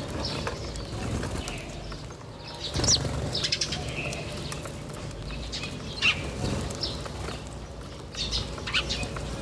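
Small birds chirping in short, scattered high calls, a few every second or two, over a low steady background rumble.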